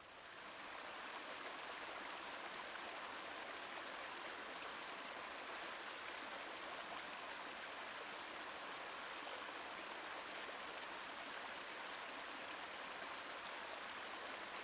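A small river rushing and cascading over rocks, a steady full water rush that fades up during the first second.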